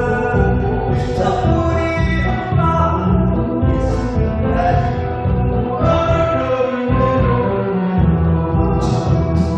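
A song playing: a voice sings a gliding melody over a backing track with a steady beat.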